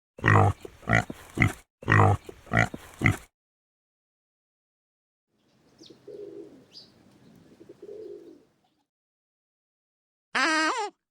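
Animal calls: two quick runs of three short, loud calls, then a fainter, rougher stretch of calling a few seconds later, and another loud call starting near the end.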